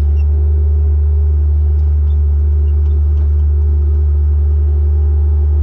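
Bobcat skid-steer loader's engine running steadily: a loud, unbroken low drone with a steady hum above it.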